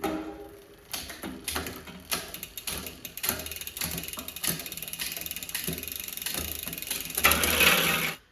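Bicycle drivetrain turned by hand in the stand: chain running through a SRAM GX Eagle rear derailleur and over the cassette, with quick ratcheting ticks and sharper clicks, while the derailleur limit screws are being set. It runs louder for the last second, then stops suddenly.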